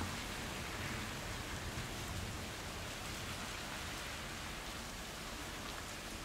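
Rain falling steadily, a dense even hiss with no thunder clap, easing slightly in level toward the end.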